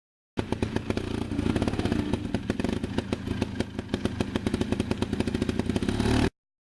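Trials motorcycle engine running at low revs, a rapid, even string of exhaust pulses with some rise and fall in speed. It starts and stops abruptly.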